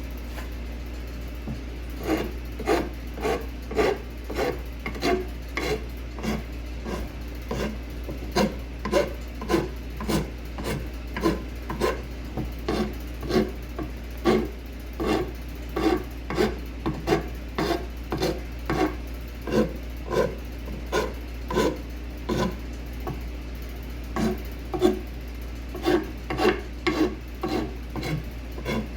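Hand tool scraping an apple-wood adze handle in repeated back-and-forth strokes, with a rasping sound. The strokes begin about two seconds in and come about three every two seconds.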